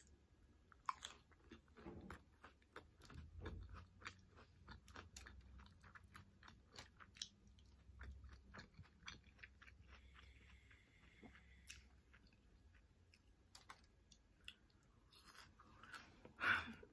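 Quiet chewing of a mouthful of nachos: a run of small crisp crunches and mouth clicks from the tortilla chip, thick in the first half and thinning out later.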